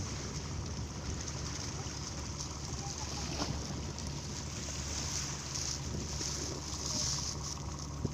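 Wind and waves at sea, wind buffeting the microphone, with a steady low hum underneath.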